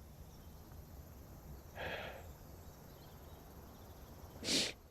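Two short breaths over a low background hum: a sigh about two seconds in, then a sharp intake of breath near the end.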